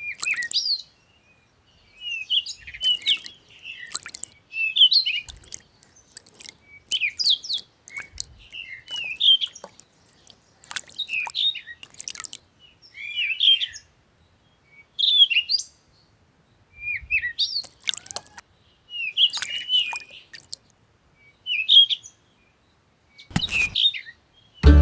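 Birds chirping in short, quick phrases repeated every second or two. A sharp knock sounds near the end.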